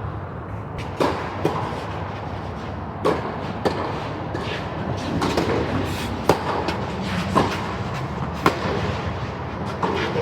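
Tennis ball being struck by rackets and bouncing on the court during a doubles rally: a series of sharp pops about a second apart, over steady outdoor background noise.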